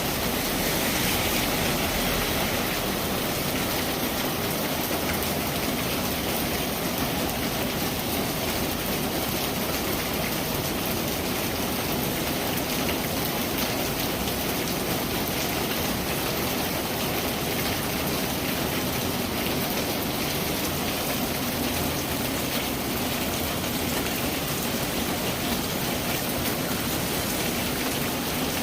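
Steady rain falling, a dense even hiss of drops with fine patter.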